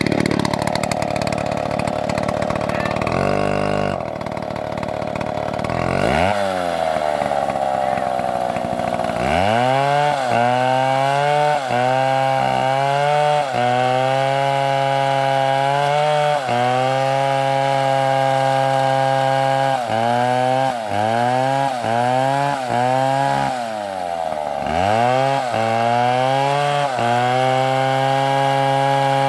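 Two-stroke STIHL chainsaw cutting wood at high revs. Its pitch dips and recovers again and again as the chain bites into the log. About six seconds in the engine falls in pitch, then climbs back to full speed around ten seconds.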